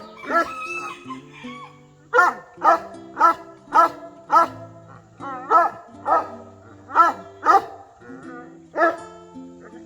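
Eight-month-old Central Asian Shepherd Dog barking in short repeated barks, about two a second, in runs with a brief pause, over background music. He is shut in and barking to be let out to his owner.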